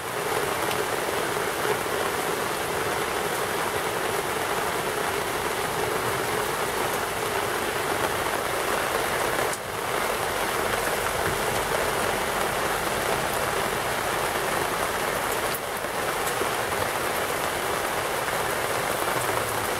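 Heavy rain, a downpour, falling steadily and evenly, with two brief dips in level, about halfway through and again near three-quarters.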